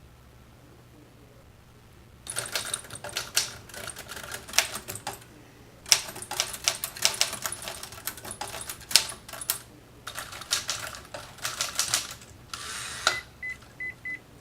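Three long runs of rapid clicking and crackling, then three short, high, evenly spaced beeps from a microwave oven's beeper near the end.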